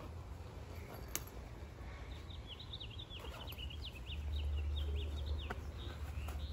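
A small bird twittering in a quick run of short, high chirps lasting about three seconds, over a steady low rumble that gets louder about four seconds in.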